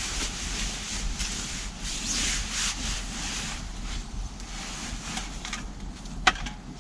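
Fabric rustling and swishing in surges as a person shifts and settles in a camping hammock, with one sharp click near the end.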